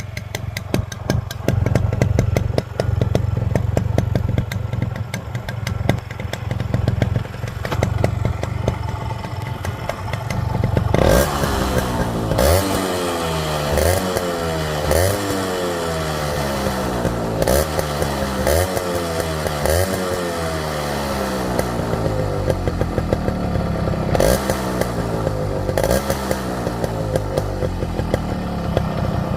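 Yamaha RX 100's 98 cc two-stroke single-cylinder engine running through a modified muffler. It idles steadily with a rapid crackle for about ten seconds, then is revved in a series of short throttle blips, each rising sharply and falling back to idle.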